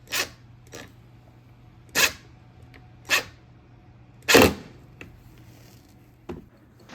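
A handful of separate sharp knocks and clicks, about six, from wood and tools being handled on a workbench; the loudest is a heavier thump about four and a half seconds in. A faint low hum runs underneath.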